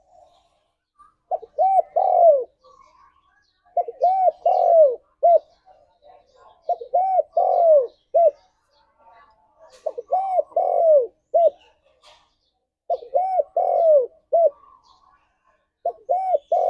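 Spotted dove (tekukur) cooing: six phrases, one about every three seconds, each of three or four arched coo notes with a short final note.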